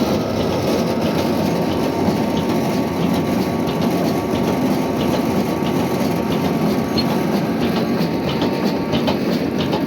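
Old stationary diesel engine running steadily, with light clicks appearing in the second half.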